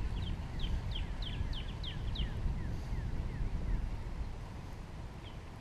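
A songbird calling a rapid series of short, high, downward-sliding notes, about four a second, that fades out after about three seconds. A steady low rumble runs underneath.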